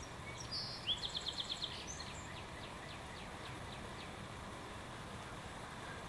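A small songbird sings one short phrase about a second in: a rising note and then a quick trill of about eight notes. Fainter single notes follow over the next couple of seconds, above a steady background hiss.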